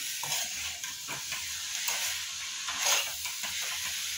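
Egg bhurji frying in a kadai while a spatula stirs and turns it: a steady sizzle with repeated spatula scrapes against the pan, the loudest about three seconds in.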